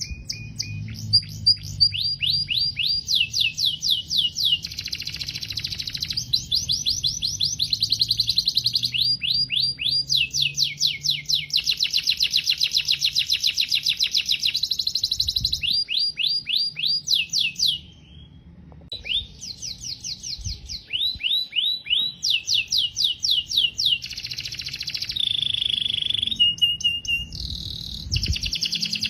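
Domestic canary singing: a long song of rapid trills, each phrase a fast run of repeated high notes, changing from phrase to phrase, with a brief pause about two-thirds of the way through and a few held whistled notes near the end.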